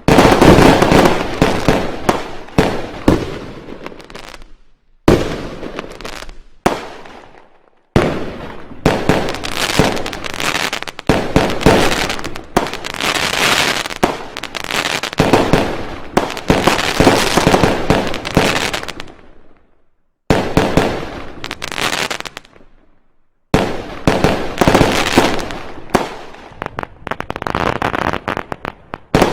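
Fireworks and firecrackers going off in long, rapid volleys of bangs and crackles, broken by four brief pauses.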